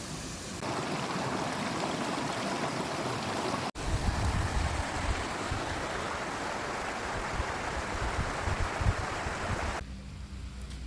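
Rushing water, an even wash of noise, changing abruptly about half a second in and again just under four seconds in after a brief dropout; near the end it turns quieter with a steady low hum.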